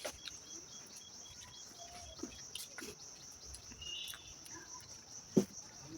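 Faint eating sounds, with a few short mouth and utensil clicks from chewing, the sharpest about five seconds in. Under them runs a steady high-pitched chirring of crickets, with a faster chirp pulsing during the first second or so.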